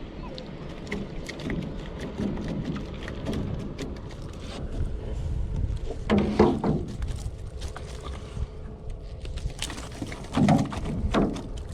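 Small boat on the water: a steady low wind rumble on the microphone with scattered light knocks and clicks, and two louder splashing swishes of water against the boat, about six seconds in and again near the end.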